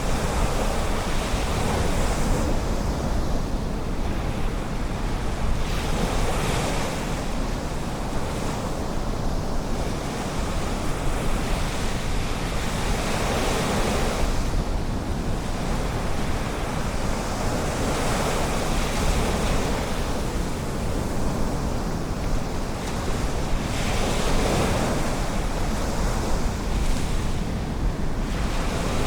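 Ocean surf washing in, with a swell of hiss from the breaking water about every five to six seconds over a steady low rumble of wind on the microphone.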